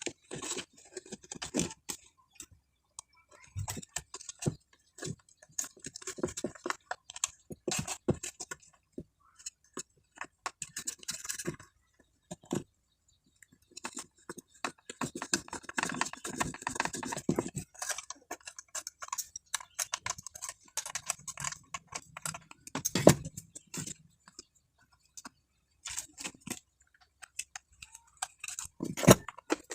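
Irregular small clicks, taps and scraping, like small parts and tools being handled, with denser scraping around a quarter of the way in and again around halfway.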